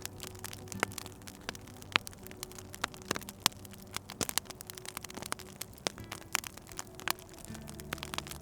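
Wood fire crackling, with many irregular sharp pops and snaps, over a faint low steady hum of held tones that change pitch near the end.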